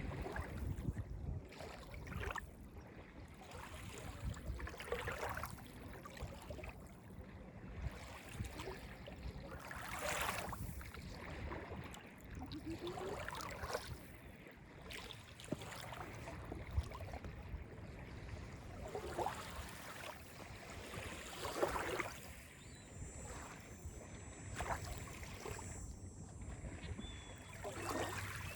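Small waves of Lake Ontario lapping and splashing on a beach, a soft wash every one to three seconds.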